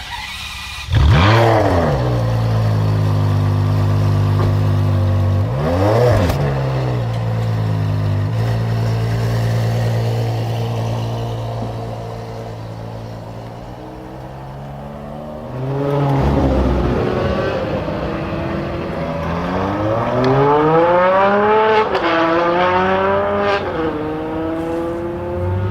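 Ferrari 599's V12 with a Kline exhaust starting up about a second in, flaring and settling into a steady idle, with a single quick rev blip a few seconds later. In the latter part the engine revs climb and fall several times, as in short acceleration pulls.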